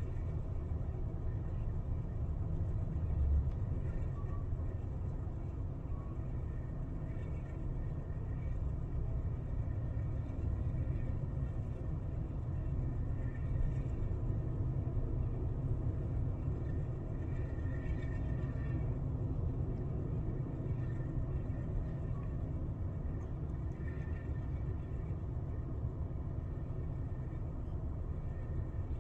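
Steady low rumble of a moving train, heard from on board.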